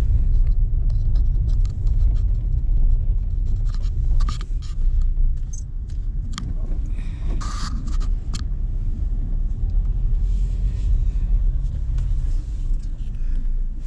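Car's engine and road noise heard from inside the cabin while driving: a steady low rumble, with a few short clicks and knocks in the middle.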